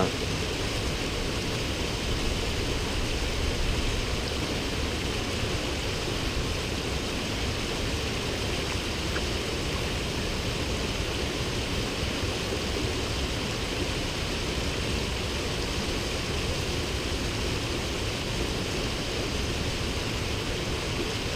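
Waterfall rushing steadily, an even unbroken wash of falling water.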